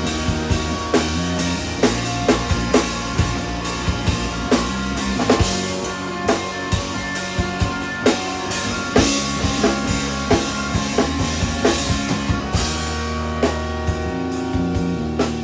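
A three-piece instrumental rock band playing live, the drum kit hitting a steady beat of kick and snare over held low notes.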